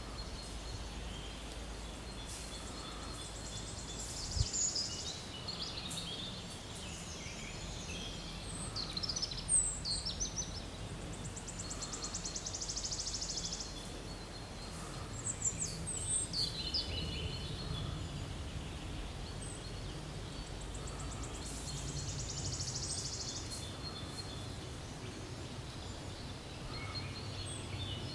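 Forest birds singing and calling: scattered short high chirps and whistled phrases, with a couple of buzzy trills, over a steady low background rumble.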